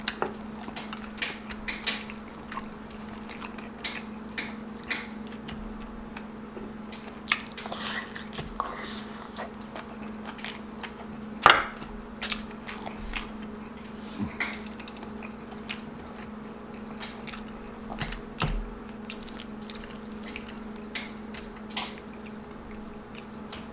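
Close-miked eating of beef stew and rice: chewing with irregular wet mouth clicks and smacks, the loudest snap about halfway through, over a steady low hum.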